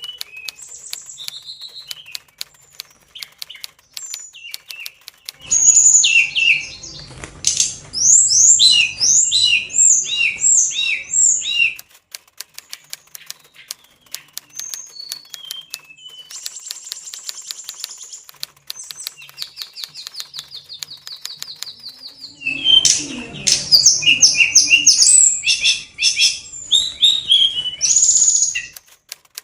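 Oriental magpie-robin (kacer) in high breeding condition singing loud, fast, varied phrases in two spells, each with wing-flapping flutter beneath. A fine rapid ticking runs throughout.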